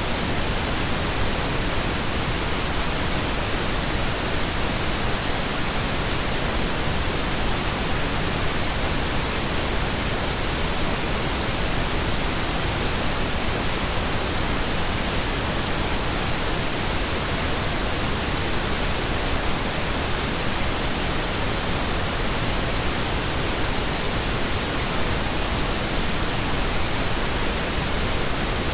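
Steady pink noise: an even, unchanging hiss across the whole range of pitch, with no breaks or events.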